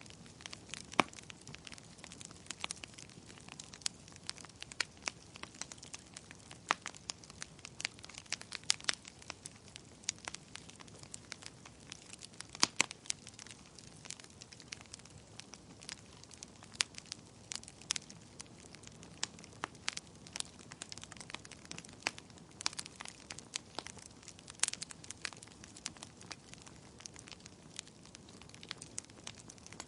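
Wood fire in a fireplace crackling, with frequent irregular sharp pops and snaps from the burning logs over a faint low hiss.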